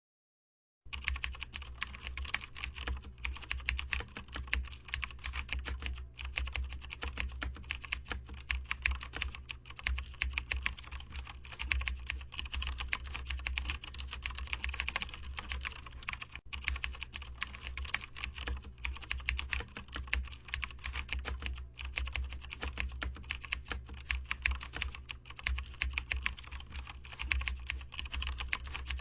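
Computer keyboard being typed on steadily and quickly, a dense run of key clicks starting about a second in.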